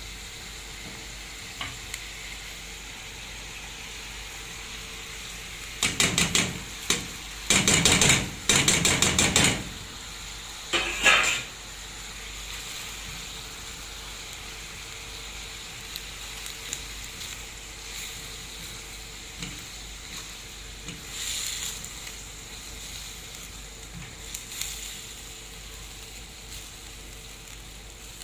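Food sizzling as it fries in a pan, with a run of loud scraping and clattering stirs a few seconds in and a couple of lighter ones later.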